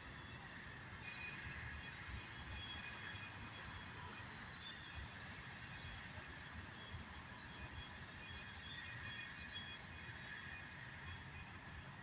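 Norfolk Southern train rolling past at a distance: a steady low rumble of wheels on rail, with faint, thin, high squealing tones from the wheels.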